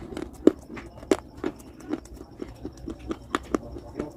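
Close-up crunching of dry baked clay being bitten and chewed: irregular sharp, brittle cracks, about two to three a second, the loudest about half a second in.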